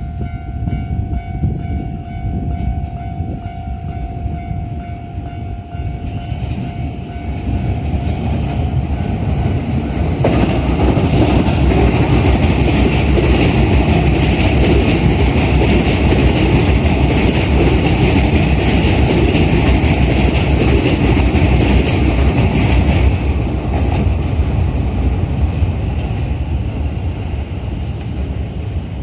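Keikyu New 1000 series electric train pulling away and passing over a level crossing. A steady electronic crossing alarm sounds for the first six or seven seconds. From about ten seconds in, the train's wheels and motors build to a loud rumble that holds for about twelve seconds and then eases off.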